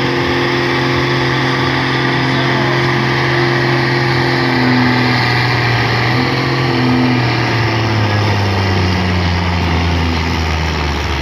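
Pulling tractor's engine running hard under load, loud and steady, its pitch falling over the last few seconds.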